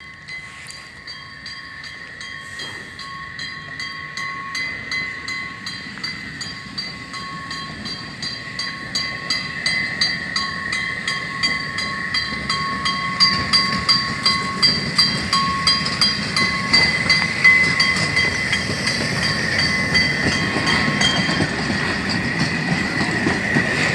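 Narrow-gauge museum train approaching and growing steadily louder, with a regular beat about twice a second and a steady high-pitched ringing tone throughout.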